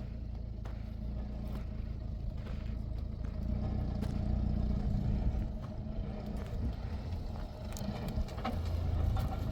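A motor vehicle's engine running steadily with a low hum, with a few light clatters over it.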